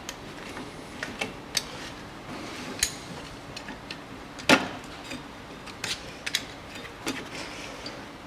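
Scattered metallic clicks and knocks from hand work on a car's rear drum brake, as the handbrake cable is fitted into its bracket, with one sharper knock about four and a half seconds in.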